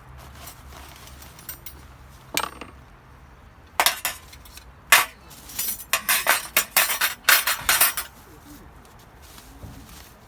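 Hard items, metal or dishware, being handled: a series of sharp clinks and knocks, one a couple of seconds in and a dense run between about four and eight seconds in.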